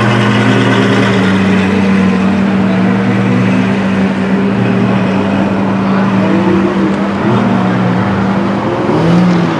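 Ferrari F12's V12 engine running at a steady, unchanging speed, a loud even note, with a brief dip and lift in pitch near the end.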